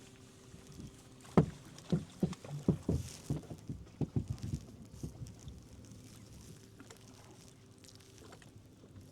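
A quick run of about a dozen knocks and thumps on a fishing boat's hull and deck, the first the loudest, over a faint steady hum.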